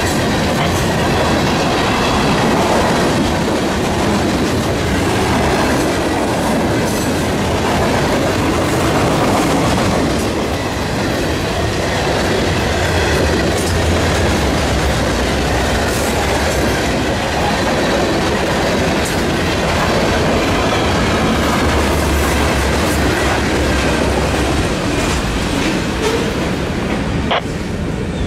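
CSX freight train cars rolling past close by: a loud, steady rumble of steel wheels on rail with scattered clicks.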